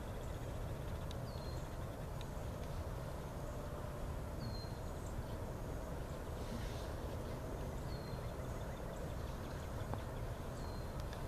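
Outdoor evening ambience: a steady low rumble under a short high chirp that repeats about every three seconds, with faint high insect-like ticking in the first couple of seconds.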